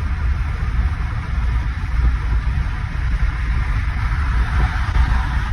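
A car running, a steady deep low rumble with an even hiss above it.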